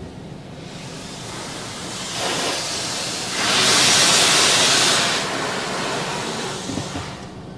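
Automatic car wash spray hitting the car as the wash arm passes, heard from inside the car: a hiss of water that swells, is loudest about halfway through, then fades away.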